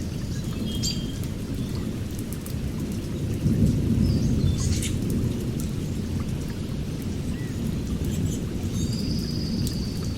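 Birds chirping, with a short high trill near the end, over a steady low rumble.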